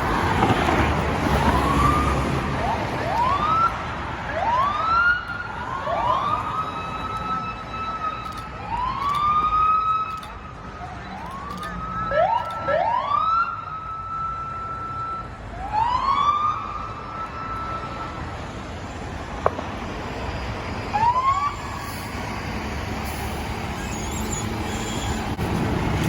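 Fire engine siren sounding a series of short wails, about a dozen in all, each climbing quickly to a high note and holding it before cutting off, over steady engine and road noise.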